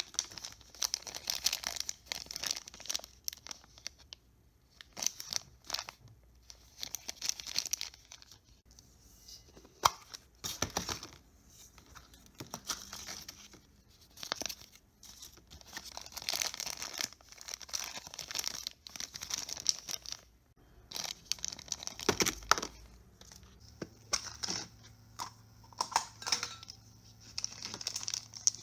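Thin plastic wrapping crinkling and tearing in irregular bursts as gachapon capsule-toy packaging is opened, with a couple of sharp clicks.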